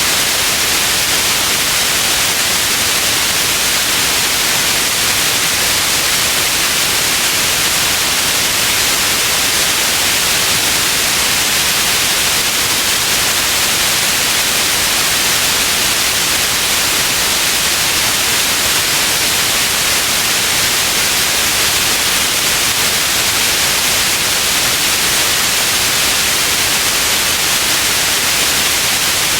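Steady, unbroken white noise: an even hiss, brightest in the upper range, with no changes.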